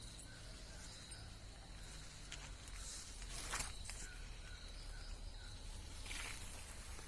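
Faint outdoor garden ambience: a steady high insect drone, with two brief brushing rustles, the louder about halfway through, as someone moves through the plants.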